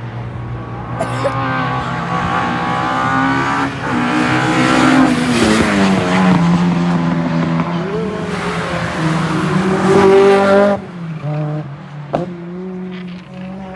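Alfa Romeo 145 engine revving hard at racing speed, its pitch climbing and falling with the throttle and gear changes. It is loud through most of the stretch and drops away sharply about eleven seconds in.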